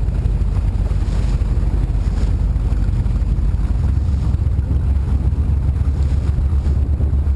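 Offshore racing powerboat engines running, a deep steady engine sound whose low pitch shifts slightly about four seconds in, with wind buffeting the microphone.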